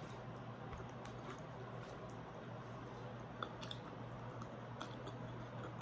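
A person chewing food, with scattered small crunchy clicks over a steady low hum.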